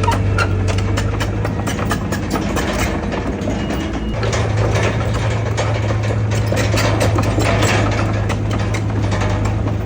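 Heavy diesel engine of a Komatsu bulldozer running steadily, with many short sharp clanks and rattles over the low engine hum.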